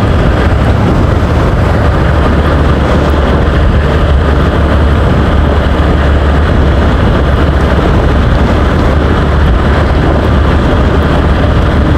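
Loud, steady wind and engine noise from a TVS Apache RTR motorcycle ridden at an even speed: a constant low rumble that does not rise or fall.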